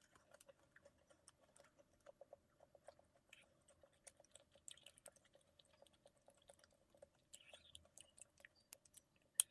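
Faint chewing of a macaron: soft, irregular mouth clicks and smacks, with one sharp click near the end.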